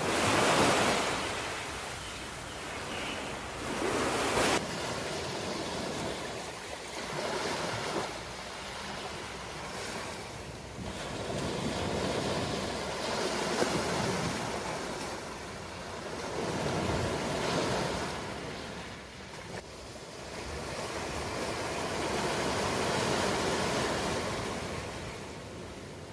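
Ocean waves breaking and washing onto a shore, the surf swelling and ebbing every few seconds, loudest just after the start.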